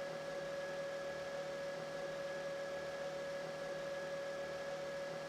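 Steady electrical hum with a constant whine, from the onboard equipment of a powered-up light rail train standing still.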